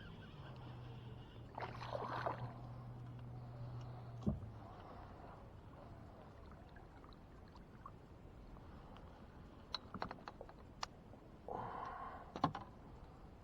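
Water splashing and sloshing around a fishing kayak, with a sharp knock on the hull and a few light clicks. A faint low hum stops after about four seconds.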